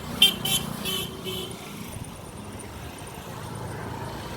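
Vehicle horn beeping in quick short toots, about three a second, four of them in the first second and a half, over a steady hum of road traffic that carries on alone after.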